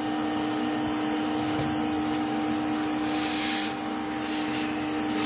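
Bee vacuum running steadily, a constant motor drone with a fixed hum, with a brief louder hissing rush of suction about three seconds in.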